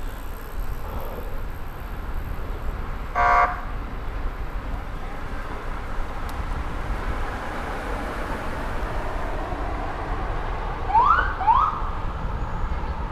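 Steady wind and rolling noise from a bike ride in a city park, with a short horn-like honk about three seconds in and two quick rising whoop-like tones near the end.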